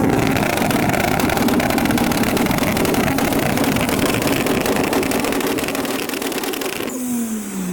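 Car engine held at high revs, a loud steady note, then dropping off about seven seconds in as the throttle is released and the revs fall.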